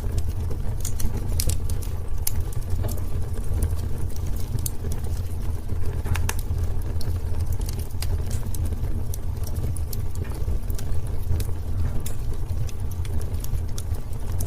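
Wood fire burning in a fireplace: a steady low rumble of flame with irregular sharp crackles and pops scattered throughout.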